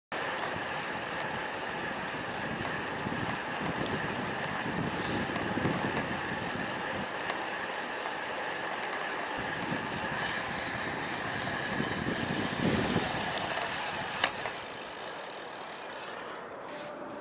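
Riding a road bike into strong wind: wind rushing and gusting over the action camera's microphone, over steady tyre and road noise.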